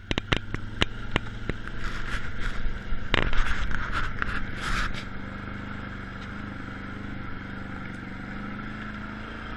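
ATV engine running, with a series of knocks and scraping over the first five seconds, then a steady engine drone.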